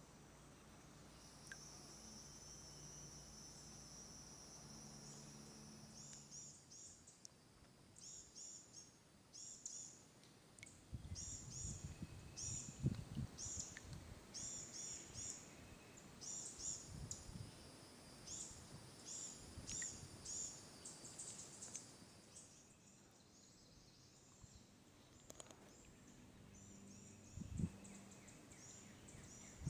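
Faint high chirps of a small bird, repeated in quick clusters of two or three notes for most of the stretch, after a steady high buzz at first. Low dull thumps come and go in the middle.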